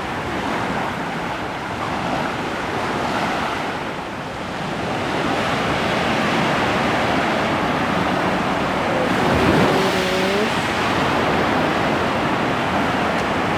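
Ocean surf breaking and washing onto the shore, a steady rush. About nine and a half seconds in, a brief pitched sound cuts through it.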